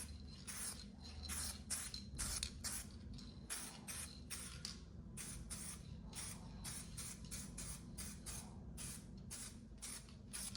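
UV primer being sprayed onto a repaired aluminium panel in many short hissing bursts, about two to three a second, over a steady low background hum.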